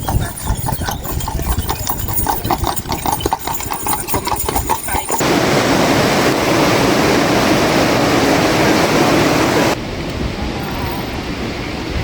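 A rapid run of knocks for about five seconds, then an abrupt cut to a loud, steady rushing noise, which cuts after about four and a half seconds to a quieter, even noise.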